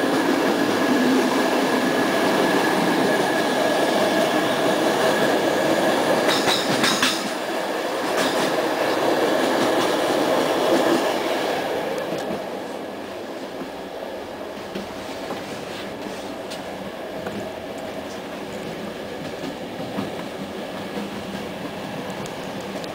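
Moving passenger train heard from inside a coach at the window: a steady rumble of wheels on the track, with a few sharp clicks about six to seven seconds in. About twelve seconds in, the noise drops noticeably and stays quieter.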